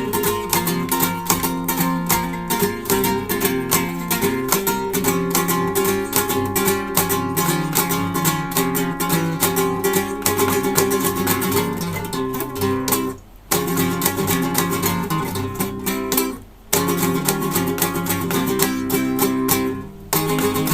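An acoustic guitar played solo, with a fast run of plucked notes and chords. The playing stops briefly three times, in the second half and near the end.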